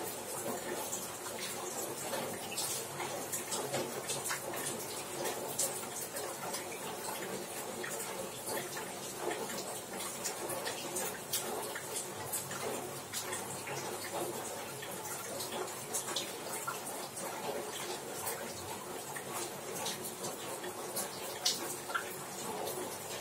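Rain falling on a roof: a gentle, steady patter, with many sharp drop ticks scattered through it.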